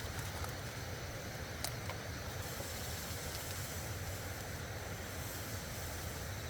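Loud, steady rushing of nearby stream water, with a deep rumble under a wide hiss, and a few faint sharp clicks.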